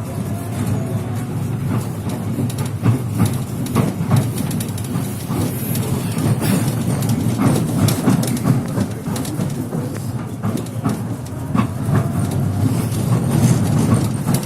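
Tram wheels knocking irregularly over crooked, uneven rails, over the steady low rumble of the running tram.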